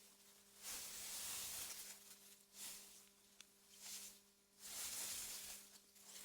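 Faint AI-generated wind through meadow grass, rising and falling in soft airy gusts about once a second or two, over a steady low hum.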